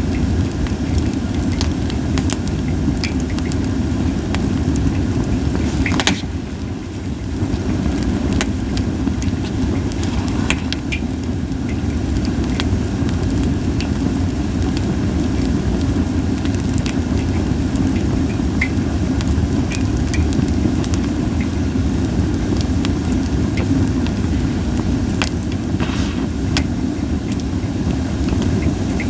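Japanese white pine (goyomatsu) campfire crackling, with scattered sharp pops and one louder pop about six seconds in, over a steady low rumble.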